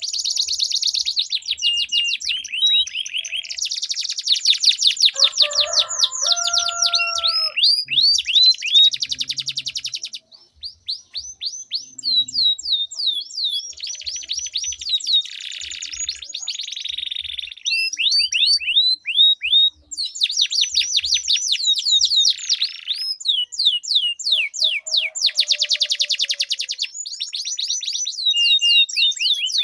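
Domestic canaries singing in a duel, long rolled trills of fast, repeated falling notes, with a short lull about ten seconds in.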